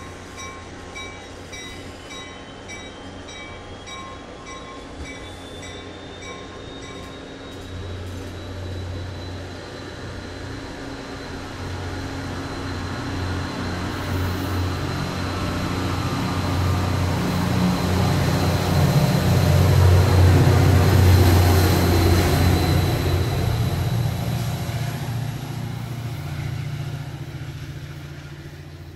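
NJ Transit commuter train moving past the platform: a low rumble of wheels and cars builds steadily to a loud peak about two-thirds of the way through, then fades, with a thin steady whine above it. A bell rings evenly about twice a second, stopping about seven seconds in.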